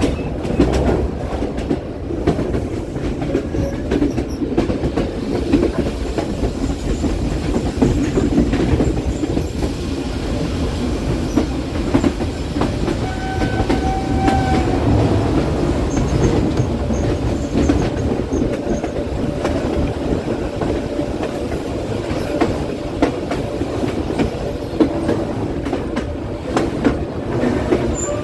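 A passenger train running on the rails with a steady rumble and irregular clatter of wheels over track joints. About halfway through, a brief faint high tone sounds.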